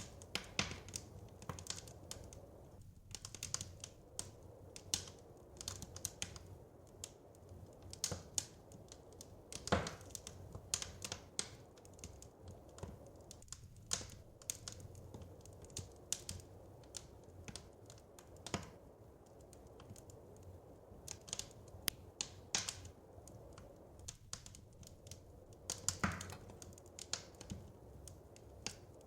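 Wood fire crackling: irregular sharp pops and snaps, some clustered and a few louder ones, over a faint steady low rumble.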